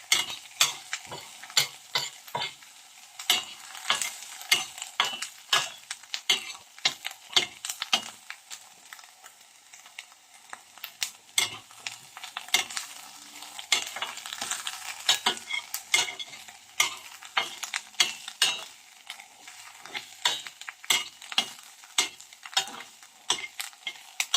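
Chopped onions sizzling steadily in a little oil in a pan, with a utensil clicking and scraping against the pan many times as they are stirred.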